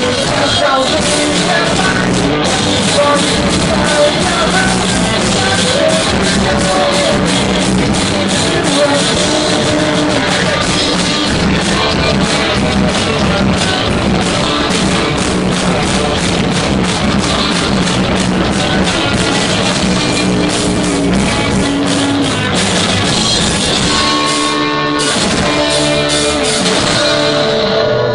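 Rock band playing live: drums, guitar and singing. The low end drops out briefly about 24 seconds in.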